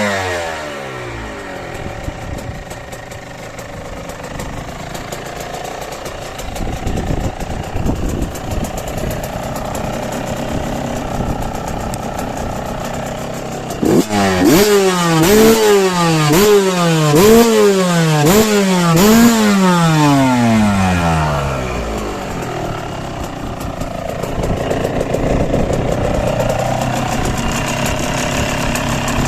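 Tuned 125 cc two-stroke engine of a Fantic XE 125 with an HGS expansion pipe, idling after the revs drop at the start, then blipped about six times in quick succession, each rev rising sharply and falling away, before settling back to idle.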